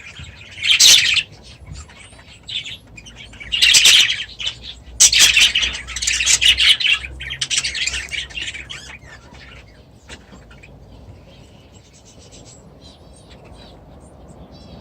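Aviary birds chirping and calling, with loud bursts of chatter in the first nine seconds and fainter chirps after that.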